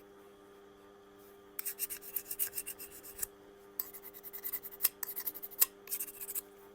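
Diamond file rubbed in quick short strokes along the edge of a soft-steel scraper blade, taking off the burr left by grinding. The rasping strokes start about a second and a half in and stop shortly before the end, over a faint steady hum.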